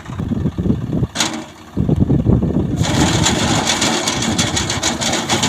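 Engine of wheat-harvesting machinery running with an uneven low rumble. A loud, steady hiss joins in about halfway through.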